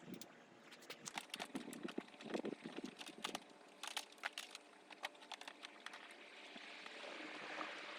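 Light clicks and rustling of a dash-cam cable and plastic bodywork being handled and tucked in by hand, with a soft hiss building near the end.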